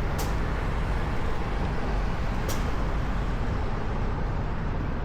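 Steady wind and road rumble from riding a bicycle through city traffic, with two short, sharp ticks about two seconds apart.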